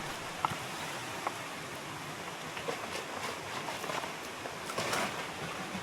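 Steady rush of flowing river water, with a few faint knocks and clicks scattered through it.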